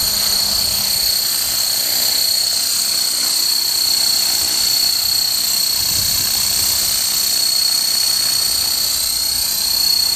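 Modified Esky Honey Bee King 2 micro RC helicopter running, its brushless motor and gears giving a steady high whine over an even rushing noise.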